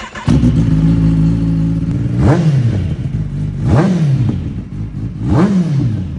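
Kawasaki Ninja motorcycle engine idling and blipped three times, about one and a half seconds apart, each rev climbing sharply and dropping back to idle.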